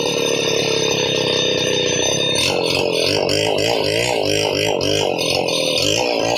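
Chainsaw engine running, steady at first, then from about two and a half seconds in its speed rises and falls over and over.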